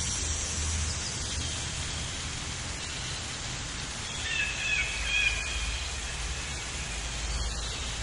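A few short, high bird chirps about halfway through, over a steady hiss of outdoor background noise.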